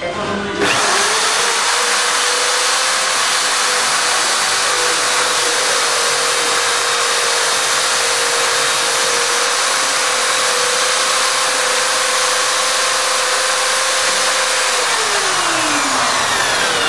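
Homemade slot milling machine driven by electric hand drills starting up abruptly and running, a steady motor whine over a harsh cutting noise. Near the end the whine drops in pitch as the motor winds down, while the harsh noise carries on.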